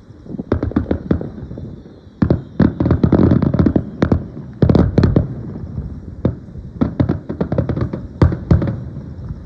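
Aerial fireworks shells bursting in quick volleys: dozens of sharp bangs over a low rumbling wash, thickest from about two to five seconds in and again towards the end.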